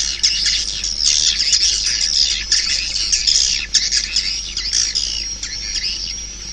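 Recording of many swiftlets chirping and twittering in a dense, continuous chorus, with a thin steady high whistle running beneath. It is the kind of swiftlet call sound played through tweeters to lure swiftlets into a swiftlet house.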